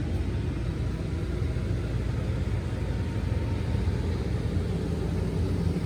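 A steady low rumble of a running engine, with no change in pitch or level.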